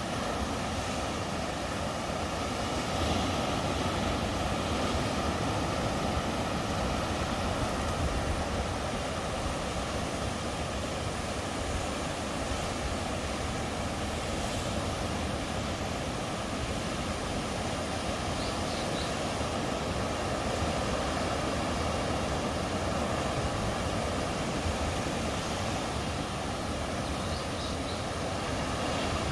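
Sea surf washing on the shore, a steady rushing noise with only slight swells in level.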